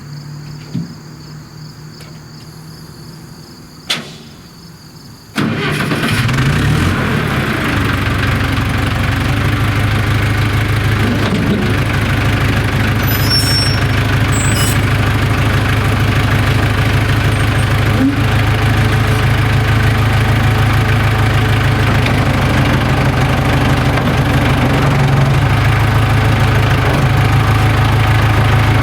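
A low steady hum with a couple of clicks, then about five seconds in the International 270A backhoe's diesel engine starts and settles into a steady idle, running on its freshly repaired injection pump.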